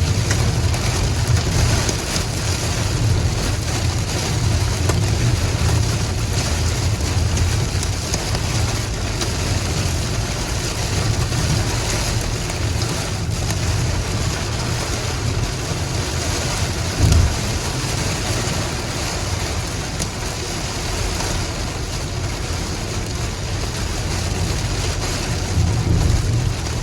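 Heavy rain falling steadily, an even hiss with a strong low rumble underneath. A brief low thump about 17 seconds in.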